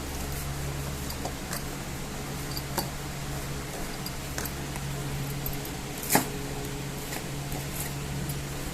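Small scattered clicks and one sharper snap about six seconds in, from handling a hot-staple plastic welder and its metal staples, over a steady low electrical hum.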